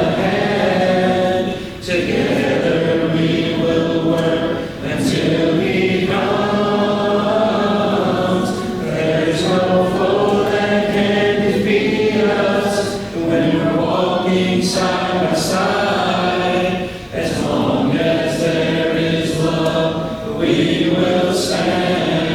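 A congregation singing a hymn a cappella, many voices together without instruments, in long held phrases with short breaks between them.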